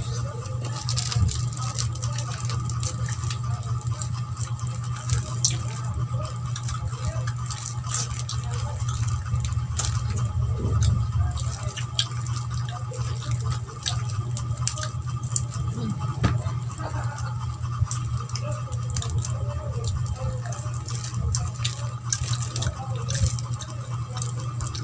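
Close-up chewing and mouth sounds of a person eating Filipino rice cakes (kakanin): small irregular wet clicks and smacks. A steady low hum runs underneath.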